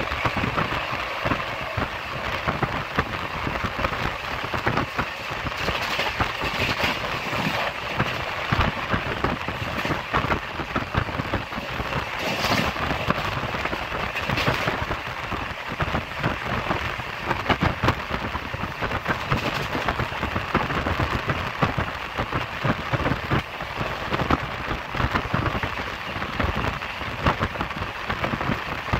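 Express passenger train running at speed: a steady rumble and rush of wheels on rails and moving air, dense with irregular knocks, and a few louder hissing rushes along the way.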